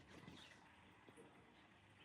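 Near silence: a faint steady hiss with a few soft clicks and small chirps.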